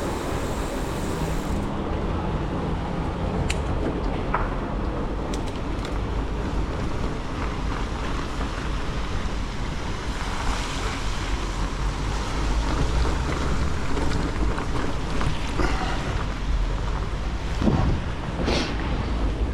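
Wind rushing over the microphone and the steady run of a bicycle being ridden, with a few short clicks and knocks from the bike along the way.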